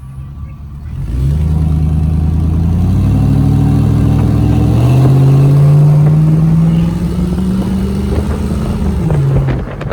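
A vehicle engine accelerating hard: its pitch climbs, drops once about five seconds in as it shifts up a gear, climbs again, then falls off near the end as the throttle eases.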